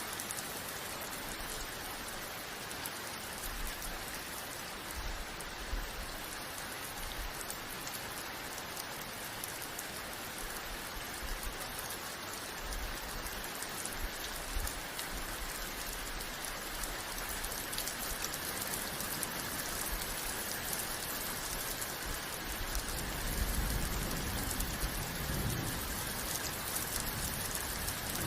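Steady rain falling, a dense even hiss. A few low rumbles come in the last few seconds.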